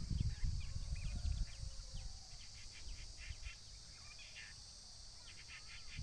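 Wild songbirds chirping in several short phrases of rapid repeated notes, over a steady high hiss. A low rumble fades out during the first two seconds.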